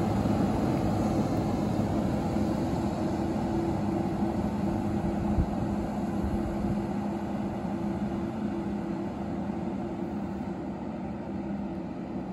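Electric locomotive-hauled passenger train running away down the line, a steady hum with two held low tones over track rumble, slowly fading as it recedes.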